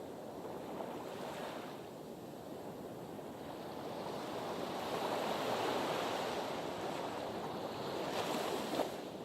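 Sea waves washing against a breakwater, the surf swelling to a peak a few seconds in and again near the end, with some wind on the microphone.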